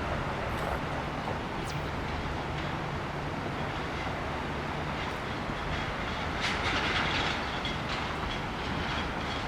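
Steady rush of flowing creek water, with a few faint clicks and a slightly louder splashy stretch about two thirds of the way through.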